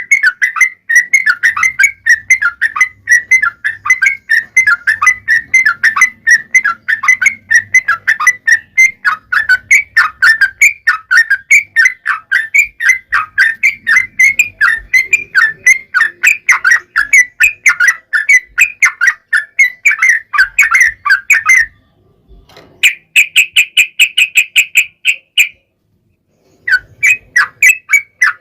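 Yellow-vented bulbul (trucukan) singing a long, fast run of chattering notes, several a second, with a short break about three-quarters of the way in; a higher, quicker trill follows, then a gap before the chattering picks up again near the end.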